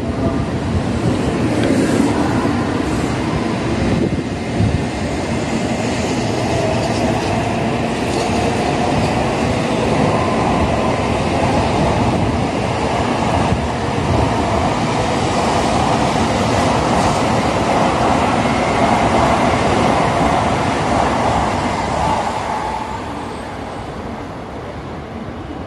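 N700-series Shinkansen train running past alongside the platform and away: a steady rush of wheels on rail and running noise, fading after about 22 seconds as the last car draws off down the line.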